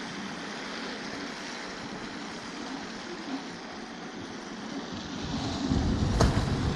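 Riding noise on an electric scooter in street traffic: a steady hiss of tyres on a wet, slushy road with wind, a low rumble swelling about five seconds in, and one sharp click near the end.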